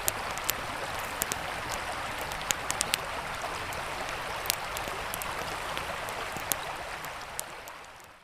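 A river flowing steadily under a campfire crackling, with irregular sharp pops, all fading out near the end.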